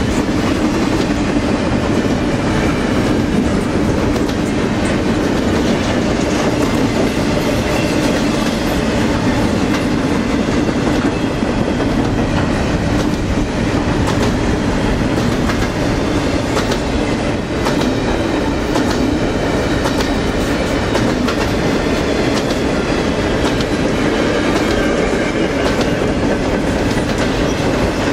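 Double-stack container train's well cars rolling steadily past: a loud, continuous rumble of steel wheels on rail with irregular clacks.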